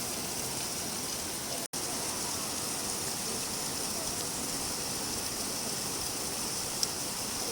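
Steady rain falling, an even hiss, cutting out for an instant a little under two seconds in.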